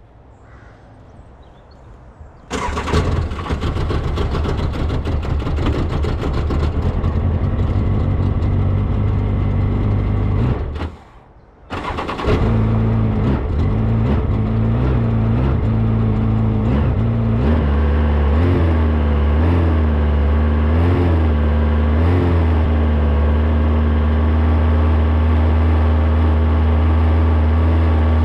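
Motorcycle engine starting: about two seconds in it starts up loudly and runs for about eight seconds, cuts out briefly, then starts again and runs unevenly. It is revved up and down a few times, then settles into a steady idle.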